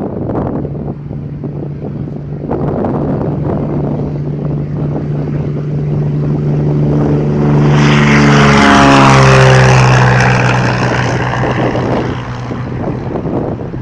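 Cessna propeller plane on its takeoff run passing close by under power. The engine note grows louder to a peak, drops in pitch as the plane goes past, then fades away.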